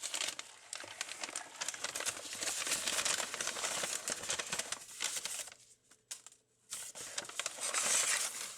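Paper takeout bag crinkling and rustling as it is opened and rummaged through, with a short pause about two-thirds of the way in.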